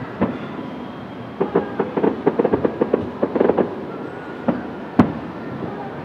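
Distant fireworks: a dense run of rapid crackling bursts from about one and a half to three and a half seconds in, then a single sharp bang about five seconds in.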